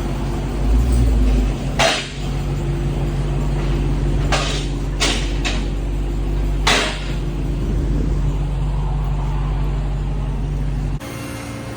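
A car engine idling steadily, with several short, sharp noises over it and a sudden drop in level near the end.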